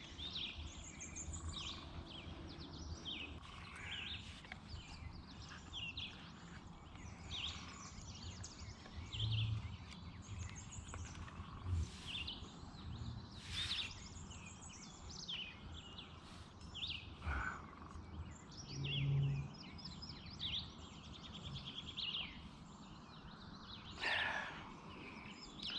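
Several songbirds chirping and trilling on and off, over a steady low background hum, with a few brief louder noises.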